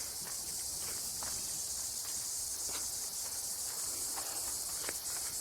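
Steady high-pitched insect chorus buzzing without a break, with a few faint footsteps on the trail.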